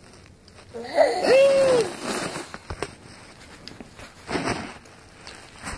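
A baby's wordless vocal squeal, rising and falling, about a second in, with breathy, wheezy sounds around it.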